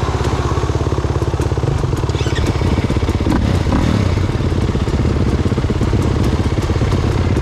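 Dirt bike's single-cylinder engine idling steadily, with an even, rapid firing pulse.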